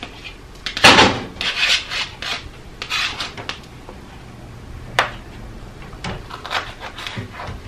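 Kitchen knife cutting hot peppers on a cutting board: a run of irregular scraping strokes, the loudest about a second in, and a sharp click about five seconds in.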